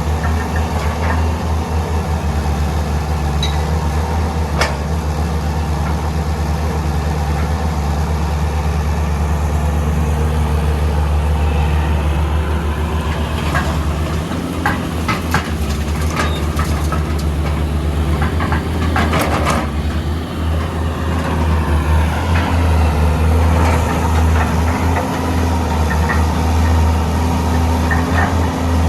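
Heavy diesel engines of an excavator and dump truck running steadily with a deep hum, with a cluster of clanks and knocks about halfway through.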